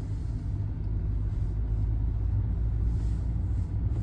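Steady low rumble of a car running slowly, heard from inside its cabin.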